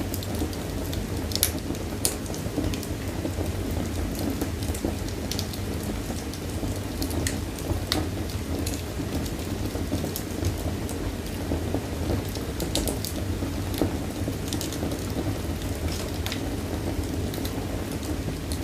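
Fire burning in a fireplace: a steady low roar of the flames with frequent sharp, irregular crackles and pops.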